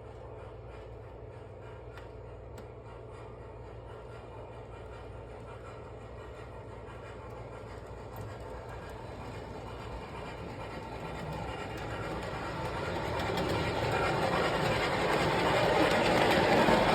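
MTH O-gauge model of the C&O Greenbrier steam locomotive with Proto-Sound 2 running on track hauling cars, with steady running noise that grows louder over the second half.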